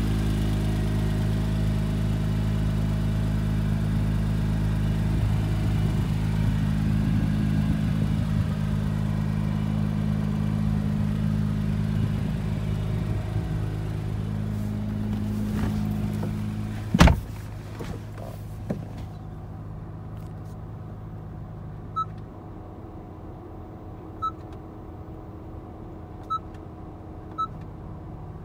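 Acura NSX's twin-turbocharged 3.5-litre V6 idling steadily. About seventeen seconds in a single loud thump, the driver's door shutting, after which the idle is heard muffled and quieter from inside the cabin. Near the end come a few short, high electronic beeps.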